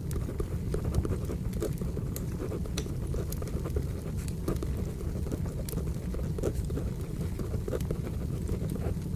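Wood fire burning, with a steady low rumble and many small crackles and pops scattered through it.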